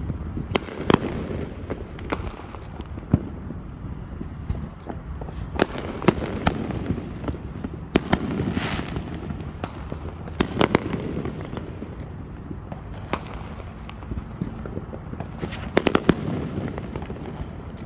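Fireworks going off: sharp bangs and pops at irregular intervals, some in quick clusters, over a continuous low rumble of more bursts.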